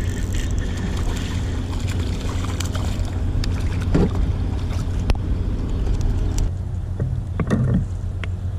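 Steady wind rumble on the microphone in an open canoe, easing a little about six and a half seconds in, with scattered light clicks and knocks, the clearest about four seconds in and near the end.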